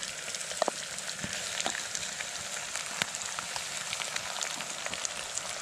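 Raw beef sizzling in hot oil in a pressure-cooker pot on a camp stove as it is stir-fried: a steady crackle with many small pops and spatters.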